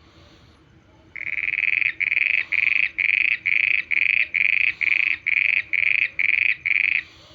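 A frog calling: about a second in, one longer croak, then a run of about eleven short croaks, evenly spaced at a little over two a second, stopping shortly before the end.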